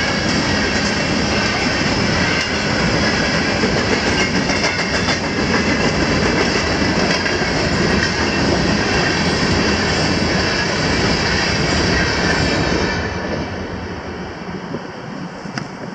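Empty coal hopper cars of a CSX freight train rolling past with a steady, loud rumble and clickety-clack of wheels over the rail joints. The sound drops off about thirteen seconds in as the end of the train goes by.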